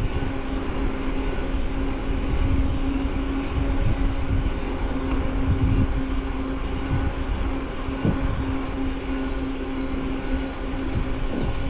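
Riding noise from a helmet- or bar-mounted camera on an e-mountain bike: a steady low rumble of wind on the microphone and tyres on the path, with a constant hum and a few low knocks from bumps.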